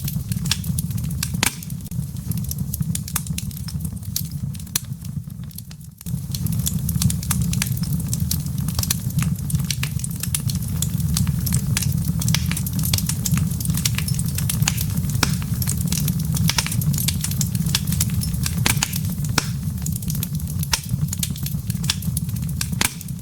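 Wood fire crackling in a fireplace: a steady low rumble with frequent sharp pops and snaps from the burning embers. The sound dips and breaks off abruptly about six seconds in, resumes at once, and cuts off suddenly at the end.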